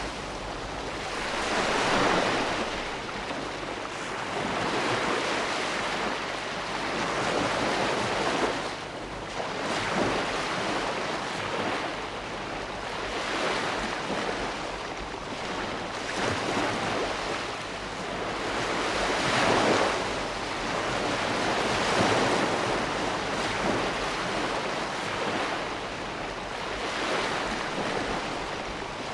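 Ocean waves breaking and washing on the shore in a continuous rush, swelling and easing every few seconds.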